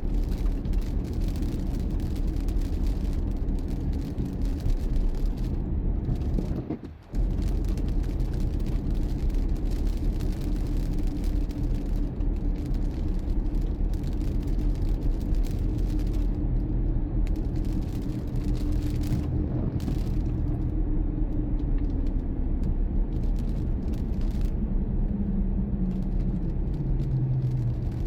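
Car driving: a steady rumble of engine and road noise. It drops out for a moment about seven seconds in, and near the end the engine note falls as the car slows.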